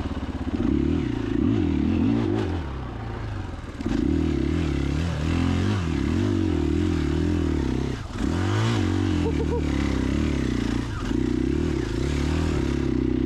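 KTM 500 EXC-F single-cylinder four-stroke dirt bike engine under way, revving up and down as the throttle is worked. The throttle is briefly backed off about three and a half seconds in and again about eight seconds in.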